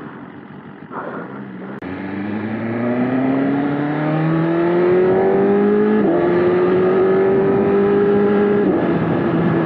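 BMW S1000RR's inline-four engine rising steadily in revs under acceleration, with an upshift about six seconds in, then running at steady revs and easing off slightly near the end.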